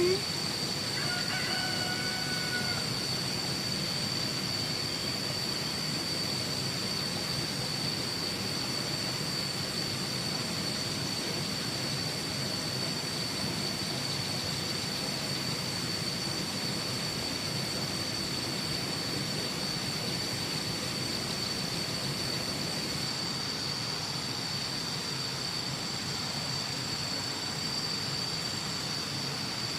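Steady high-pitched insect chirring with a constant hiss beneath it. A rooster crows faintly about a second in.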